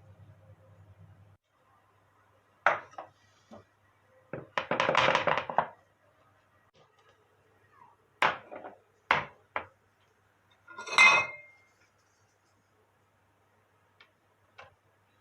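Kitchen dishes and utensils being handled: a string of sharp clinks and knocks, with a longer scraping or rustling stretch about four to six seconds in and a ringing clink about eleven seconds in.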